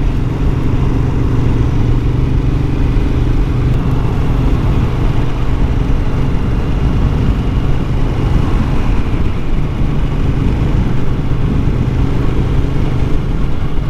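Motorcycle engine running steadily at road speed, with wind rumble on a helmet-mounted camera.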